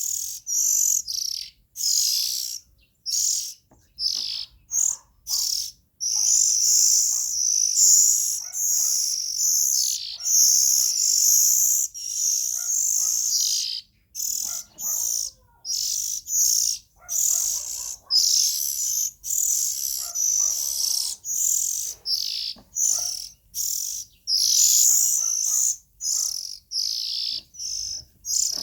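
Young Oriental magpie-robin calling: a steady stream of high chirping notes, mostly short phrases with brief gaps, with a few longer unbroken runs.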